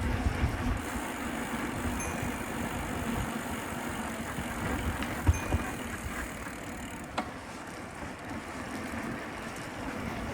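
Street noise from a moving bicycle: a steady hiss of road and wind noise with gusty low rumbles. A faint, short high beep repeats every few seconds, and a single sharp click comes about seven seconds in.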